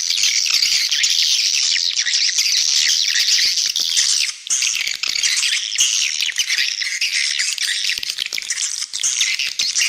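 Dense, continuous twittering of many swiftlets, high-pitched chirps overlapping without pause, with a brief dip about four and a half seconds in. This is a swiftlet call recording of the kind played in swiftlet houses to lure the birds in to roost and nest.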